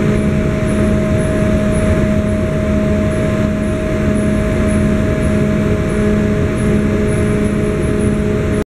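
Ferry's engines running steadily, heard inside the vehicle hold: a low rumble with a steady hum of several tones. It cuts off suddenly at the very end.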